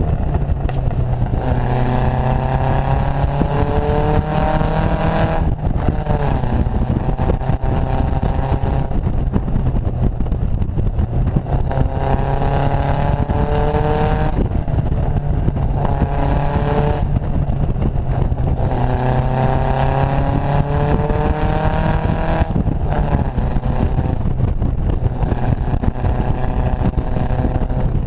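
Datsun Fairlady roadster's four-cylinder engine pulling hard under acceleration, its note climbing for a few seconds and then dropping away, about five times in a row. Heard from inside the open car, with road and wind noise under it.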